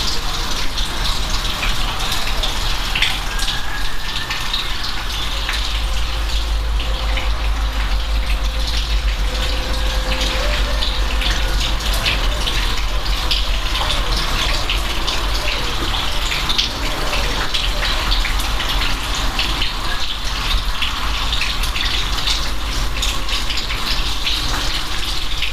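Steady rain: a dense patter of drops over an even hiss, with a steady low rumble underneath.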